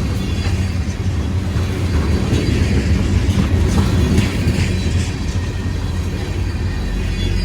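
Freight train rolling past: a steady low rumble with wheels clicking over the rail joints.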